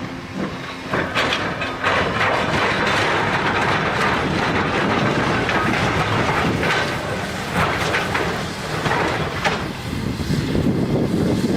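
Train running on the rails: a steady rumble with irregular metallic clanks of wheels over the track.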